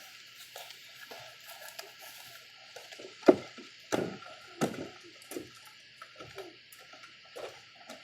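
Birds feeding at a bird feeder: irregular knocks and taps of beaks and feet on the feeder and seed, with three louder knocks about three to five seconds in, over a steady faint high hiss of insects.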